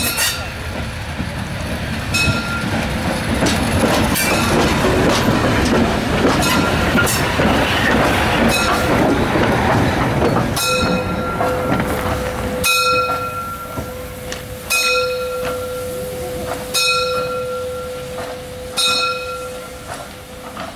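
A steam locomotive on the move at a railway depot: about ten seconds of loud rumble and noise, then a steady whine with sharp clicks about every two seconds as it runs slowly over the track.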